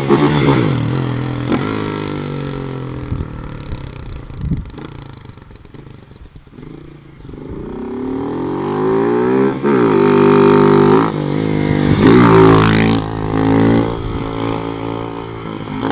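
Motorcycle engine revving hard as it is ridden for wheelies. Its pitch and loudness fall away over the first several seconds, then climb back up from about halfway through, loudest around three-quarters of the way in.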